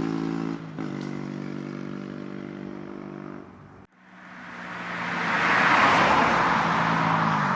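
Honda CBR125R's single-cylinder four-stroke engine through a Scorpion carbon exhaust, running at steady revs, then quieter and fading away. The sound cuts out just before four seconds in, then the bike comes back in, growing loud over the next two seconds as it approaches.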